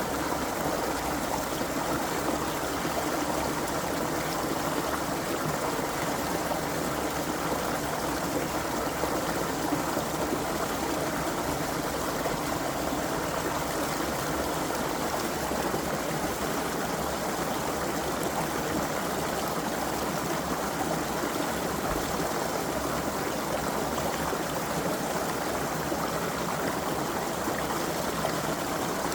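Creek water flowing steadily, an even, unbroken rush of running water.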